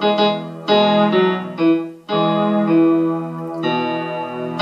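Electronic keyboard set to a piano-pad sound, played slowly in E: about half a dozen notes and chords struck one after another, each held until the next.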